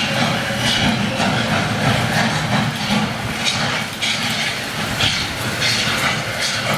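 A train moving, with a steady low rumble and a rhythmic beat of short hissing bursts about twice a second.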